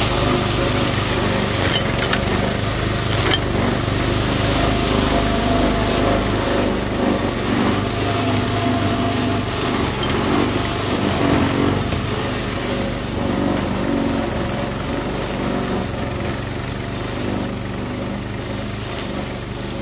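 Small engine of a BlueBird self-propelled walk-behind brush cutter running steadily, getting slightly quieter over the last few seconds.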